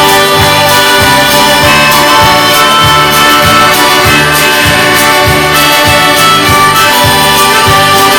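Live folk band playing an instrumental break between sung verses: sustained melody lines over a steady, driving bass beat.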